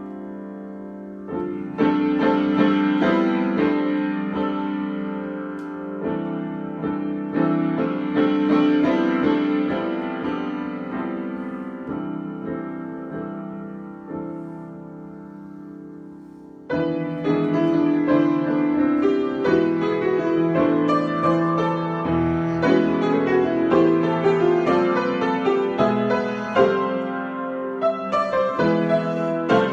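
Solo piano improvisation. Chords are struck about a second and a half in and left to ring and fade. A bit past halfway the playing turns suddenly louder and busier, with many quick notes.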